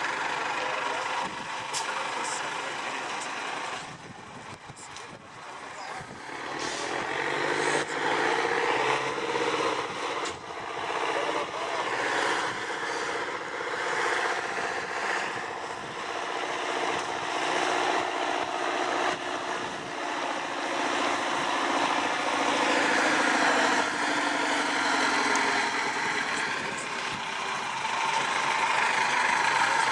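Off-road trial truck's engine running, its pitch rising and falling with the throttle. It drops away for a couple of seconds about four seconds in, then comes back louder and stays loud.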